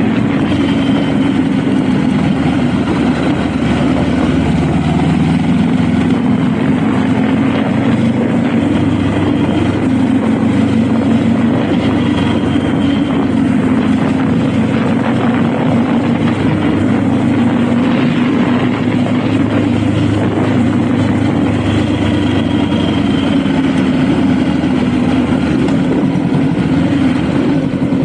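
Honda Rebel motorcycle engine running under way, its pitch rising and falling gently with the throttle.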